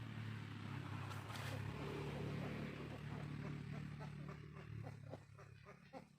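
A motor vehicle's engine running as it passes, a steady low hum that swells and then fades away.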